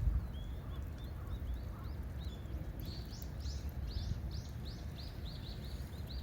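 A bird calling: a run of short, high chirps, faint and spaced out at first, then louder and quicker from about halfway in, over a low steady rumble.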